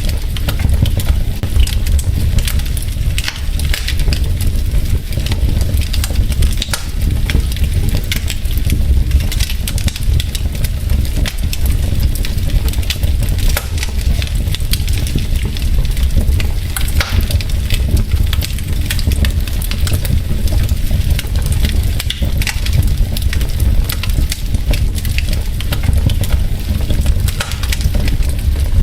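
Wood fire in a fireplace: burning logs crackling continuously with many sharp clicks over a steady low rumble of the flames.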